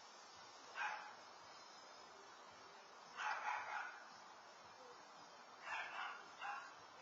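A dog barking in short bouts: a single bark about a second in, a quick run of about three a few seconds later, then a few more near the end.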